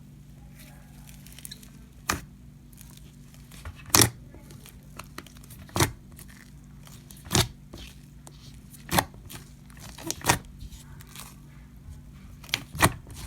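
Float slime being squeezed and pressed, giving sharp pops and crackles about every one and a half to two seconds, with a double pop near the end.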